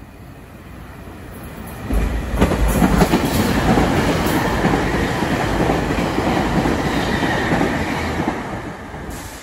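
SEPTA Regional Rail commuter train rushing past a station platform at speed. It builds up over the first two seconds, then runs loud and steady with wheels clicking over the rail joints, and eases off near the end.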